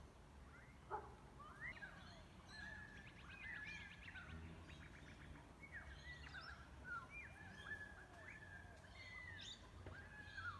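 Several birds calling at once, faint: short whistled notes, chirps and quick rattling trills overlapping throughout, over a steady low hum.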